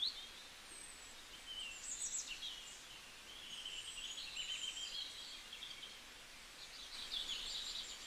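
Faint birdsong: small birds chirping with short high calls, and a longer warbling trill a few seconds in, over a soft background hiss.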